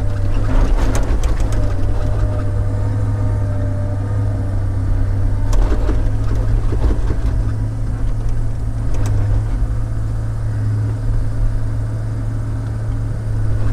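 Komatsu log loader's diesel engine running with a steady low drone, heard from the operator's cab. A few sharp knocks come about a second in, near six seconds and near nine seconds.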